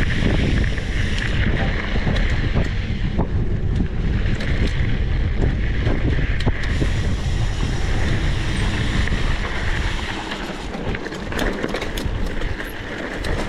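Heavy wind buffeting the microphone, a dense low rumble with a hiss over it, easing slightly near the end, where a few small clicks come through.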